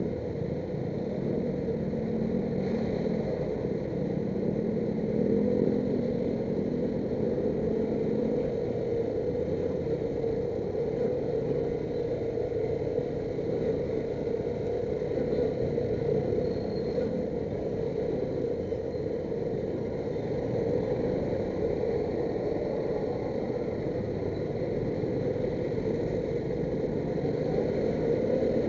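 Motorcycle engine running steadily amid heavy rush-hour traffic noise, with a wavering engine note in the first several seconds.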